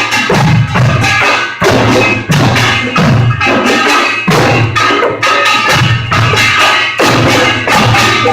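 Korean pungmul percussion ensemble playing a fast, steady rhythm: the clang of small gongs over repeated drum beats. Recorded loud and harsh on a phone.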